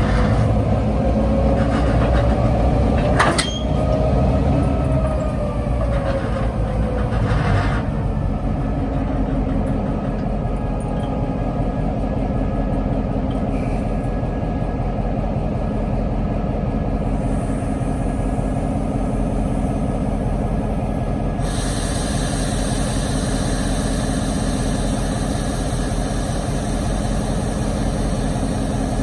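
EMD GP38-3 diesel-electric locomotive, with a 16-cylinder two-stroke EMD 645 engine, running steadily during switching. There is a sharp clank about three seconds in, and a steady hiss joins about two-thirds of the way through.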